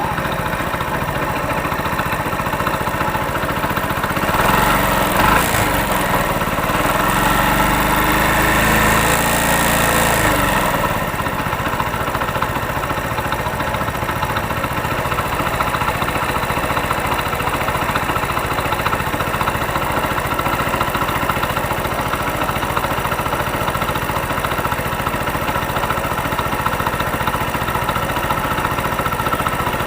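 Hero Honda Splendor Plus's single-cylinder four-stroke engine idling, revved up about four seconds in and dropping back to idle around eleven seconds. Under it is a light 'khat khat' knock that the mechanic puts down to slight play in the crank's connecting rod, not the piston, timing chain or tappets.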